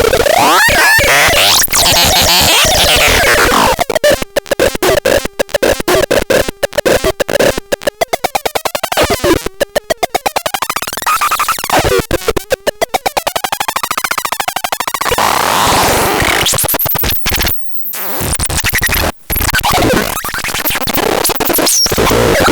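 Harsh electronic synthesizer noise from the ELKER: sweeping glides at first, then a long stretch of rapid stuttering pulses whose pitch slides up and down, then dense noise again with a couple of brief sudden cut-outs.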